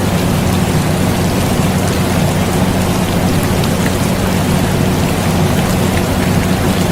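Steady rain mixed with the constant low hum and rush of an air conditioner, unchanging throughout.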